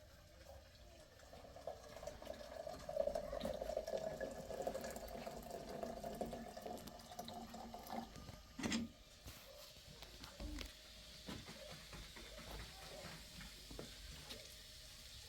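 Water running or pouring into a container for about six seconds, then stopping, followed by a single knock and small handling clicks.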